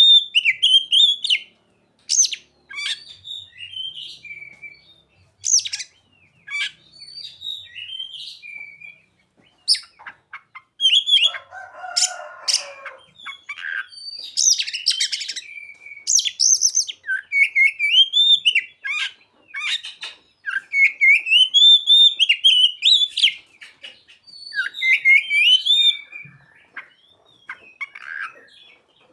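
Oriental magpie-robin (kacer) singing a varied, continuous song of whistled phrases that rise and fall, mixed with sharp high chips and, about eleven seconds in, a brief harsh rasping passage. The song is filled with mimicked calls of the bar-winged prinia (ciblek) and the sogon.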